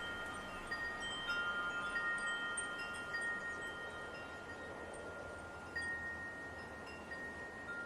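Wind chimes ringing: several long, overlapping tones struck again and again at uneven intervals, over a soft steady wind hiss.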